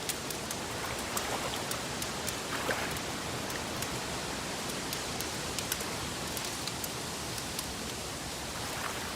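Wood fire crackling: scattered sharp pops and snaps over a steady hiss.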